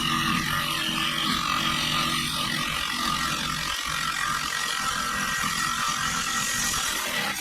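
A motor-driven machine running steadily, a continuous mechanical whirring with a faint steady hum through it.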